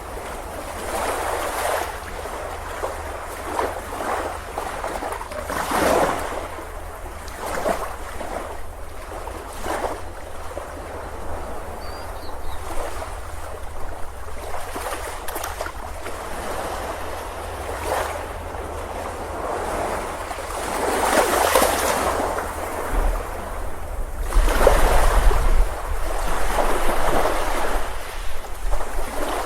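Ocean surf breaking and washing up a beach in repeated surges a few seconds apart, the largest swells coming late, with a low rumble under one of them near the end.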